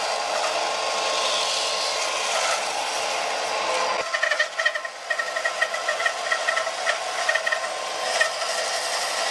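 Woodworking tool working on wood: a steady rasping, rubbing noise that changes abruptly about four seconds in to an uneven scraping with rapid light clicks.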